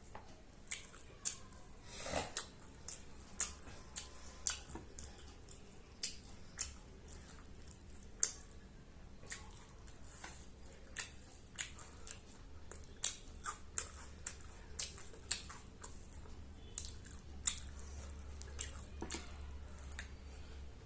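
Close-up eating sounds of someone chewing biryani: irregular wet mouth smacks and chewing clicks, one or two a second, with a low steady hum underneath.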